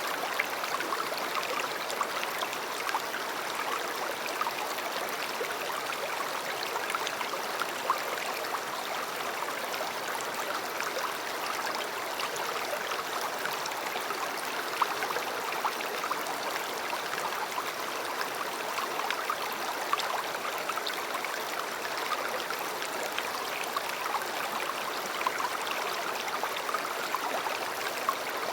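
A river or stream flowing steadily over rocks, a constant rushing babble with small splashes and gurgles throughout.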